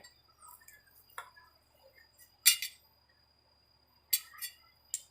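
Metal clinks of tools and brush cutter parts being handled while the blade mount is taken apart: a faint tick about a second in, a sharp clink about two and a half seconds in, and two more clinks near the end.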